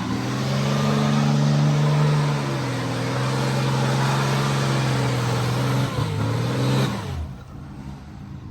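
4th-gen Cummins 6.7-litre turbo-diesel pickup held at steady high revs in a burnout, with a loud hiss from the spinning tyres. About seven seconds in it lets off and falls back to a low idle.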